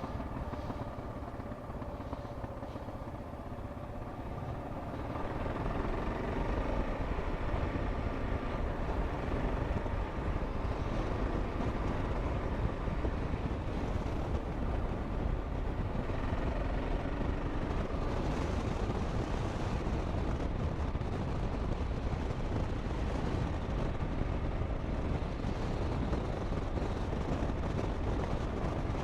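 Kawasaki KLR 650 single-cylinder dual-sport motorcycle running on the road, heard from the rider's helmet: steady engine note mixed with wind and road noise, growing louder about five seconds in and then holding.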